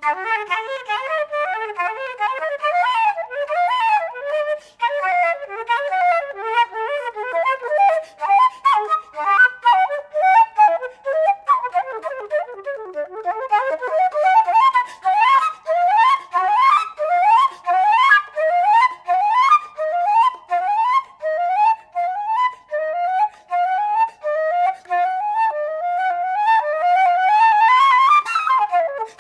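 Flute playing fast, virtuosic runs, starting suddenly out of silence. About halfway through it settles into rapid repeated rising figures, climbing higher near the end.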